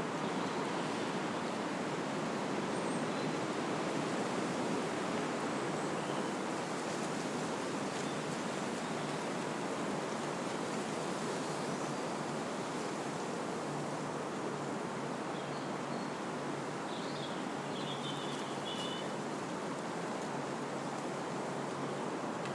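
Wind blowing steadily through trees, an even rushing of the foliage.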